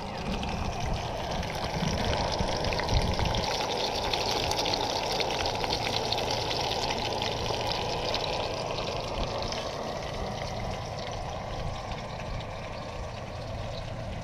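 River water rushing steadily, with a stronger low rumble a couple of seconds in.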